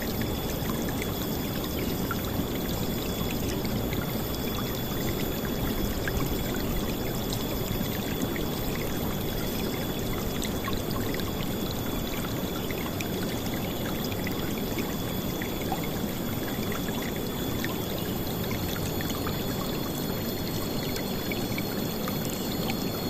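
River water flowing and splashing steadily, a constant, full rush with most of its weight in the low range. A thin, steady high tone runs faintly behind it.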